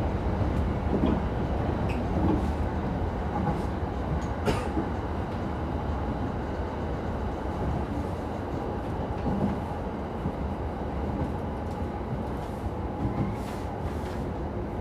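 Electric commuter train heard from inside the carriage: a steady rumble of wheels and running gear with a faint steady whine, getting gradually quieter as it slows for the next station. A single sharp click about four and a half seconds in.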